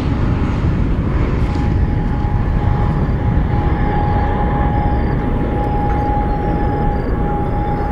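Boeing 767 jet engines at takeoff power, a loud steady roar, with a thin steady whine joining about a second and a half in.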